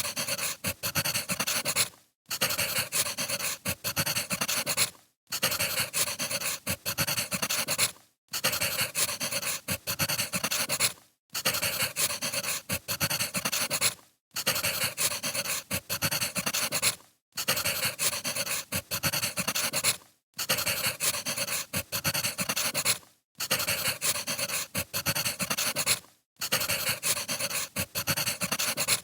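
Wood fire crackling with many small pops, a short recording looped so that it cuts out briefly about every three seconds.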